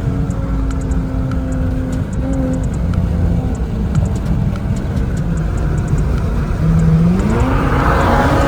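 Car engine running steadily with a deep rumble, then revving up near the end, its pitch climbing as it accelerates.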